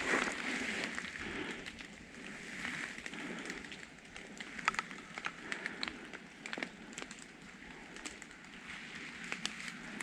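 Footsteps through forest leaf litter: swishing steps in the first few seconds, then scattered sharp crackles and snaps of leaves and twigs underfoot.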